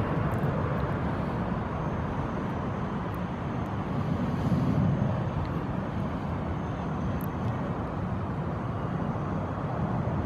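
Steady background rumble of distant road traffic, swelling slightly about halfway through as a vehicle passes.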